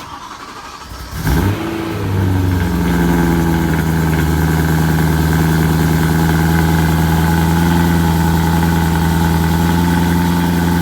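BMW E93 M3's S65 V8 starting on a catless resonated X-pipe exhaust: it cranks briefly, catches about a second in with a quick rev flare, then settles into a steady idle.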